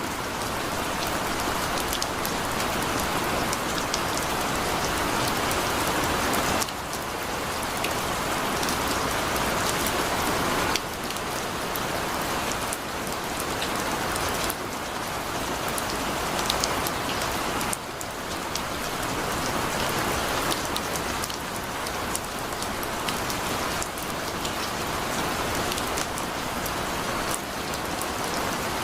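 Heavy rain falling: a dense steady hiss of rain with scattered sharper drop hits, the level dropping suddenly every few seconds and building up again.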